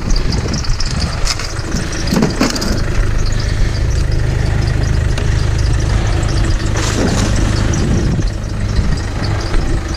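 Car engine running with a squeaky fan belt, over a steady low rumble.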